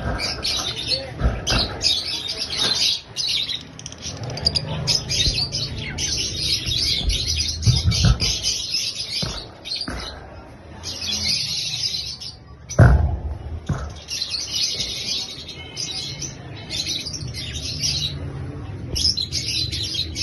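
Pet parrots chirping and chattering almost without pause, a dense overlapping twitter, with a few dull thumps, the loudest about two-thirds of the way through.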